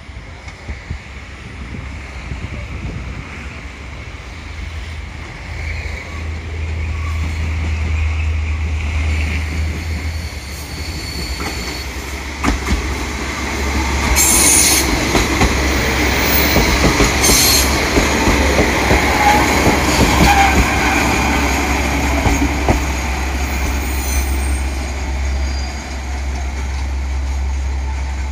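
A train passing through a station, growing louder as it approaches, its wheels clattering over the rail joints. Two short, sharp, high sounds come about halfway through, over a steady low hum.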